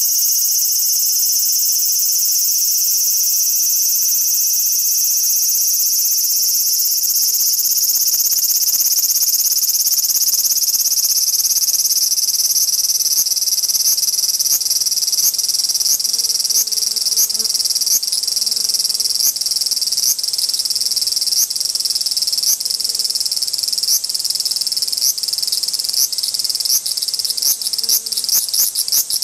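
Large brown cicadas singing: a loud, steady, high sizzling buzz. About twelve seconds in, a pulsing call joins it, its strokes coming faster toward the end.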